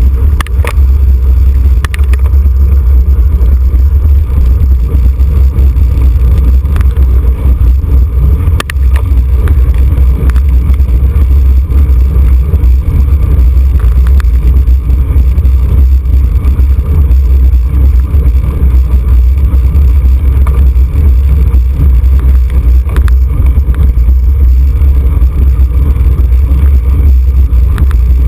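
Loud, steady low rumble of wind buffeting the microphone of a camera on a moving racing bicycle, with a few faint clicks scattered through it.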